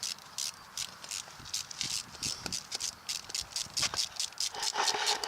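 Hand tool working metal on a truck drive-shaft U-joint: quick repeated scraping strokes, about four a second, getting louder near the end.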